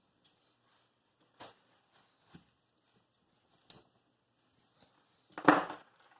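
Small metal parts of a telescope mount being handled on a workbench: a few light clicks and a clink, then a louder half-second clatter near the end.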